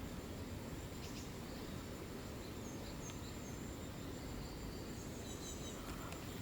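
Steady outdoor background noise with a thin, steady high whine and a few faint, short high chirps in the middle and near the end.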